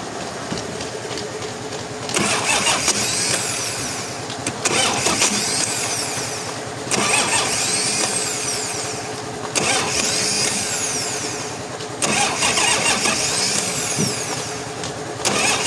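Sawmill saw cutting timber over a steady machine hum. A loud cutting surge with a high, rising-and-falling whine comes about every two and a half seconds, six times over.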